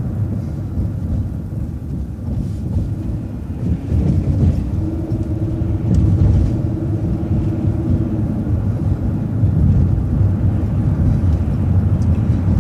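City transit bus driving, a steady low engine and road rumble heard from inside the bus, with a steady hum coming in for about four seconds in the middle.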